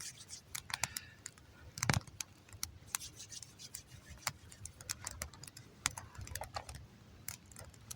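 Wood campfire burning with irregular crackles and snaps, several a second, and one louder knock about two seconds in.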